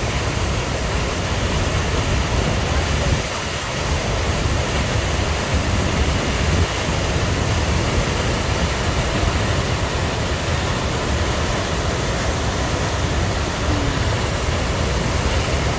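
Large waterfall, the Cascata delle Marmore, with a steady loud roar of rushing, falling water.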